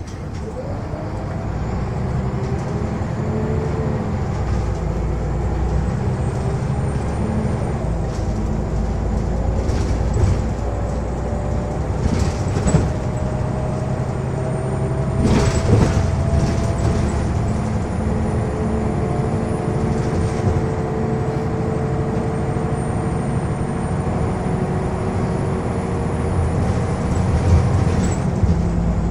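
Scania L94UB city bus under way: diesel engine and driveline running, with a whine that rises slowly as the bus gathers speed, and a few sharp knocks and rattles.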